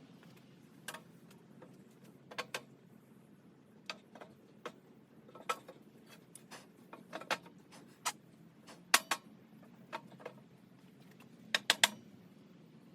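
Irregular light clicks and clinks of small hard parts being handled, about a dozen spread apart, with the sharpest about nine seconds in and a quick run of three near the end.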